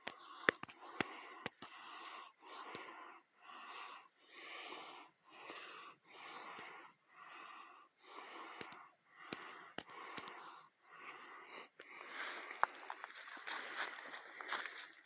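Heavy, wheezy breathing of a hiker, in and out in a steady rhythm of about one stroke per second, with a few sharp clicks near the start.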